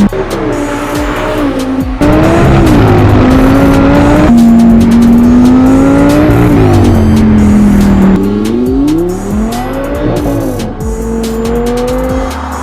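Audi R8's naturally aspirated 5.2-litre V10 through a Milltek exhaust, loud, its pitch repeatedly rising and falling as it revs and eases off. The sound changes abruptly about two, four and eight seconds in.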